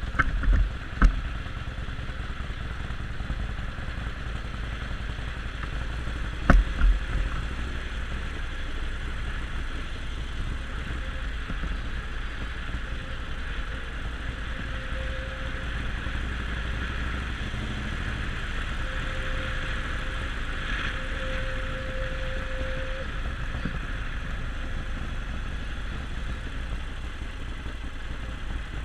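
Riding on a Harley-Davidson Sportster Forty-Eight: steady wind rush on the microphone with the motorcycle running underneath. There are a few sharp knocks near the start and another cluster about six seconds in.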